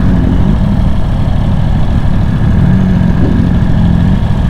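Motorcycle engine running at low revs near idle while the bike rolls slowly, a steady low engine note throughout.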